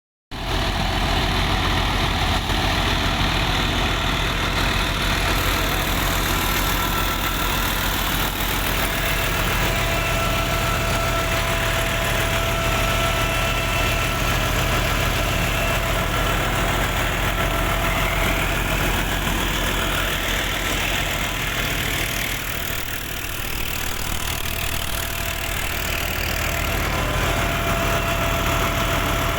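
A 65 hp tractor's engine runs steadily while driving a wheat thresher, with thin, steady whining tones above the engine's drone.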